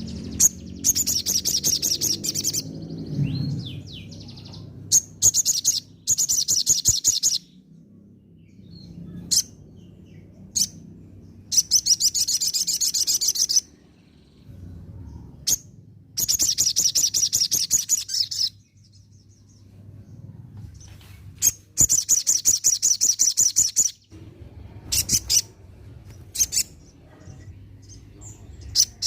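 Olive-backed sunbird (sogon) singing: about six bursts of rapid, high twittering trills, each lasting a second or two, with single sharp chirps between the bursts.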